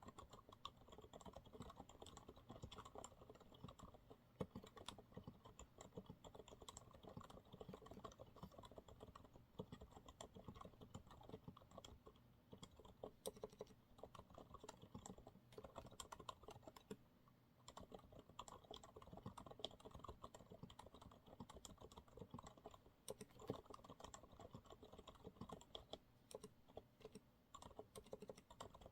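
Continuous typing on a Monsgeek MG108W keyboard with TTC silent brown switches: soft, quick keystrokes in a steady stream, with a brief pause a little past halfway through.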